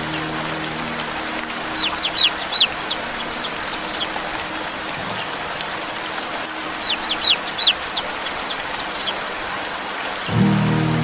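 Steady rain, with two runs of quick, high, falling peeps from a baby chick, about two seconds in and again about seven seconds in. Soft music fades out at the start and returns near the end.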